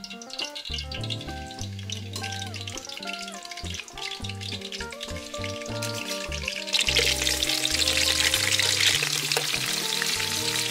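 Hot oil crackling lightly in a wok, then about two-thirds of the way through a sudden loud, steady sizzle as pork ribs go into the oil and start frying.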